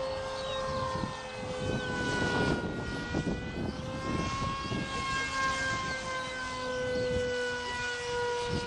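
Electric RC model jet's brushless outrunner motor and propeller whining steadily in flight, the pitch sagging and rising a little as it flies by, over a rushing wind noise that is heaviest in the middle.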